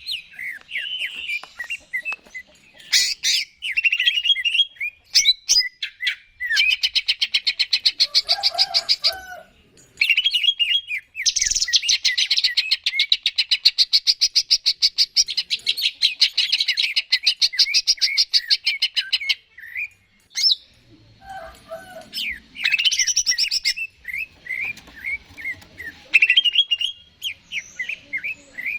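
Greater green leafbird (cucak ijo) singing: quick high chirps and whistled notes, broken in the middle by two long, rapid rattling trills, the second lasting about eight seconds.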